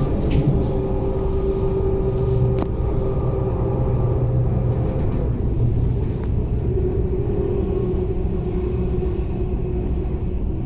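Steady low rumble of a moving vehicle, with a faint even hum underneath.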